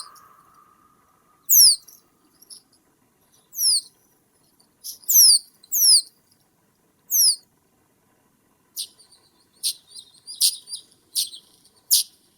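Small birds calling: high, thin notes that sweep steeply downward, one every second or two, then, from about nine seconds in, a quicker run of short sharp chips.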